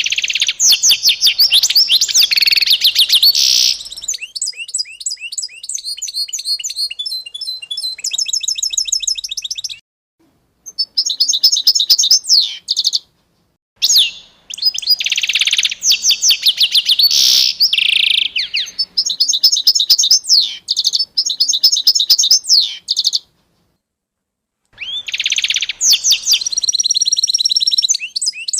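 Songbirds singing in phrases of rapid, high chirps and trills, broken three times by short, abrupt silences.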